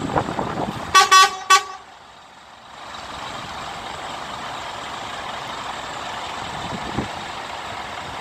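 A truck horn sounds three short, loud toots about a second in. Behind it is the steady rumble of truck engines and traffic.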